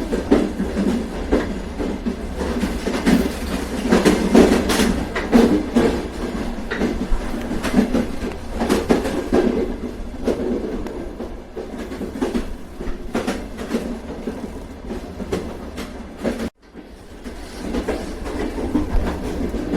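Train running on rails: a steady low rumble with repeated clacks of the wheels over rail joints. About 16 s in the sound cuts out suddenly for a moment and then swells back.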